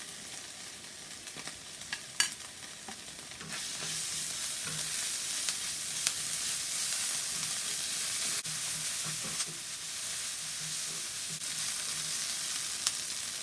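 Chopped onion and ginger garlic paste sizzling in hot coconut oil in a pan over high heat, with a utensil stirring and scraping. The sizzle gets louder about three and a half seconds in, and a sharp knock of the utensil comes about two seconds in.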